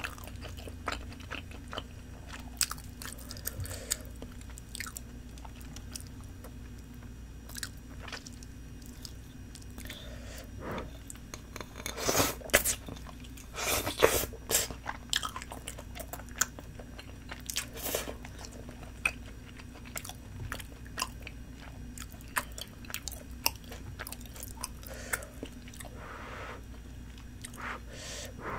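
Close-miked chewing and biting of spicy tteokbokki: chewy rice cakes and fish cake in sauce, heard as many short wet clicks and smacks of the mouth. The eating noises grow louder and more frequent about twelve to fifteen seconds in, over a faint low hum.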